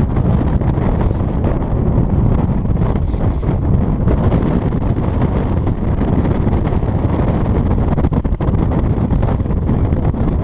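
Strong gusting wind buffeting the microphone: a loud, continuous rumbling noise.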